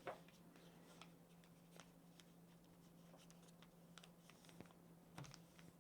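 Faint paper handling: a sheet of printer paper being creased and folded by hand, giving a few soft scattered clicks and rustles over a low steady hum.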